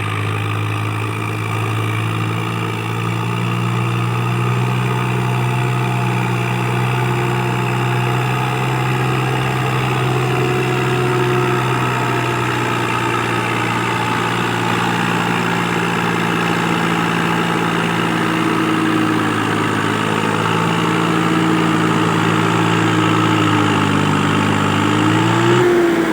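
Swaraj tractor's diesel engine running at a steady speed, then revving up near the end.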